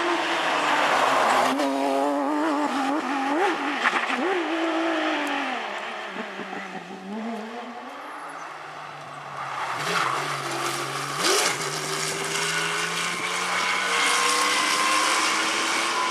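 Porsche rally car's flat-six engine revving hard through gear changes as it passes at speed, its pitch falling and fading as it drives away about halfway through, with a few sharp cracks. Another rally car's engine then builds steadily as it approaches.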